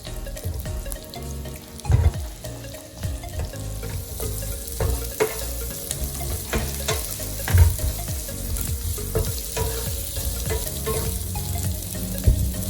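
Diced onions sizzling as they fry in hot oil and chicken fat in a pan, stirred with a utensil that knocks and scrapes against the pan every so often.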